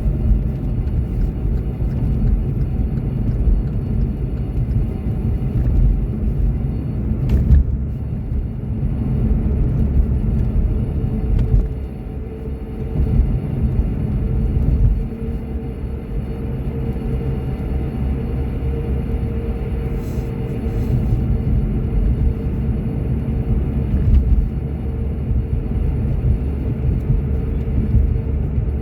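Road and engine noise inside a moving car: a steady low rumble of tyres and engine. A single click comes about a quarter of the way in, and a faint steady hum joins the rumble about halfway through.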